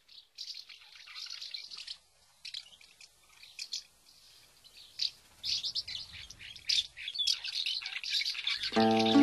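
Small birds chirping and singing in many short, quick high notes. Music comes in near the end.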